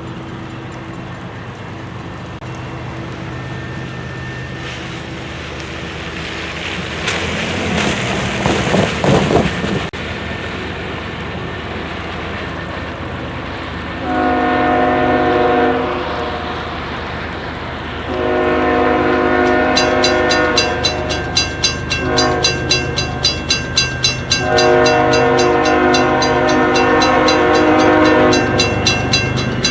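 Two GE ES44AH diesel locomotives approaching, their engines droning steadily, with a brief rushing noise around eight seconds in. From about fourteen seconds the air horn sounds in several blasts, the last one long, and from about twenty seconds the locomotive bell rings rapidly, about three strikes a second.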